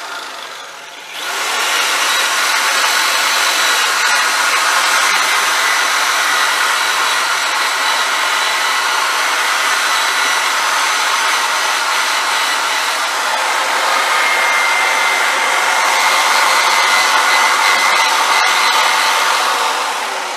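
Electric drill running steadily under load while working on an old metal reel. It slows briefly, speeds back up about a second in, and begins to wind down right at the end.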